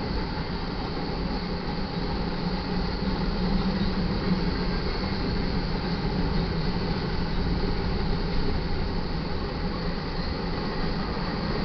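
Freight train cars rolling past close by: a steady, unbroken rumble of steel wheels on the rails.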